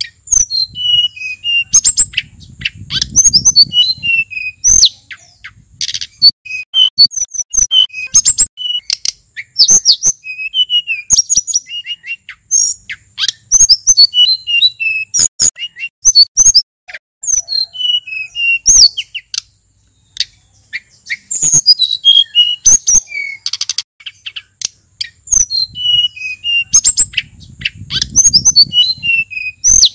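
Male sulingan gunung songbird singing, with quick varied phrases of high whistled and slurred notes broken by short pauses. A faint low rumble comes in twice, once near the start and once near the end.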